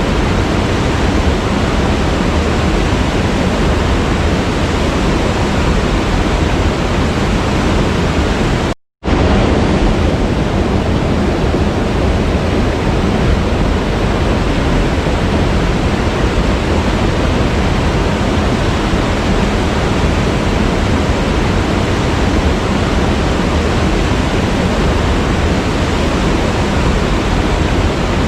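Waterfall rushing steadily, a loud, even roar of falling water. The sound cuts out completely for a moment about nine seconds in, then resumes unchanged.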